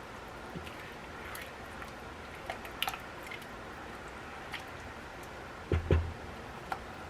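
Small clicks and taps of cooking utensils and containers being handled, with two dull thumps close together about six seconds in, over a steady low hiss.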